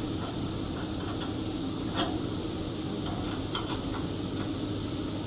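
Light metallic clinks and taps of tools and metal parts being handled, with two sharper clicks about two and three and a half seconds in, over a steady low machine-room hum.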